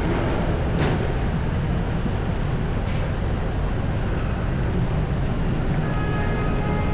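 Steady rumble of road traffic on a busy city street, with a couple of brief knocks.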